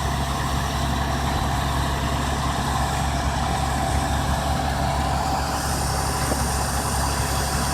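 Tow truck engine running steadily at idle while it winches a crashed truck up onto its bed.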